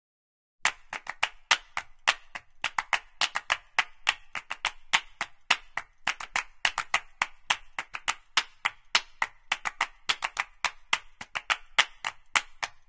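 A fast, uneven run of sharp percussive claps, several a second, starting just under a second in.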